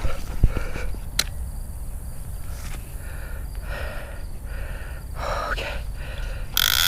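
A man breathing hard in short noisy puffs and gasps, with a louder gasp near the end, over a steady low rumble of wind on the microphone.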